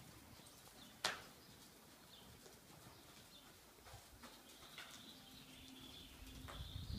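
Faint quiet ambience of small birds chirping now and then, with one sharp click about a second in.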